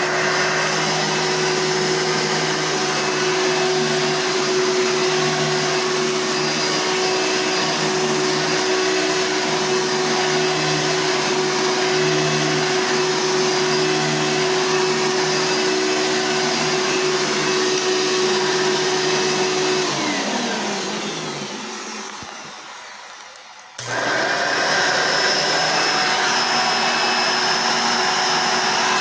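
A Hoover Sprint upright vacuum cleaner runs steadily, is switched off about twenty seconds in and winds down with a falling hum. A few seconds later a second upright vacuum, the Hoover Encore Supreme, switches on abruptly and runs steadily with a different, higher-pitched sound.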